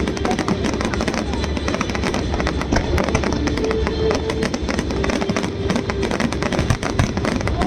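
Fireworks bursting and crackling rapidly in a dense run, with music playing along.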